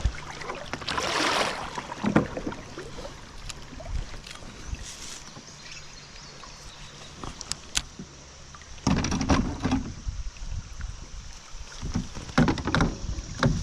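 Water splashing around a kayak, with scattered knocks and rattles of gear against the hull and a few louder rough thumps and rustles in the second half.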